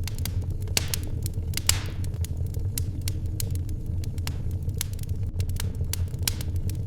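Wood fire in a fireplace crackling: sharp, irregular pops over a steady low rumble, with one louder pop trailed by a brief hiss about two seconds in.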